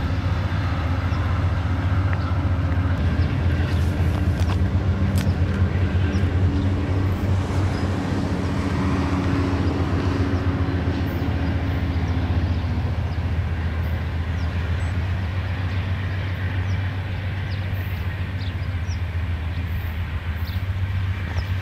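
VIA Rail passenger train rolling past on the track and pulling away: a steady low rumble, with a humming tone that fades out about halfway through as the last car recedes.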